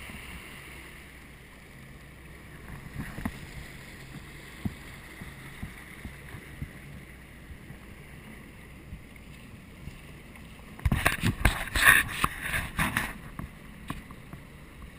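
Jet ski engine running low and steady on the water, with small ticks of water against the hull. About eleven seconds in, a loud rough burst of knocks and splashes lasts about two seconds.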